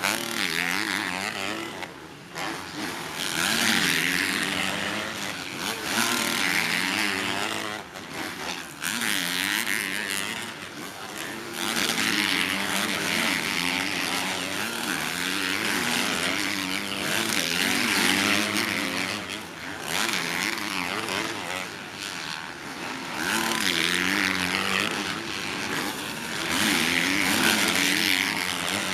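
Motocross bike engines revving hard, the pitch climbing and dropping with throttle and gear changes, swelling loud several times as bikes go past.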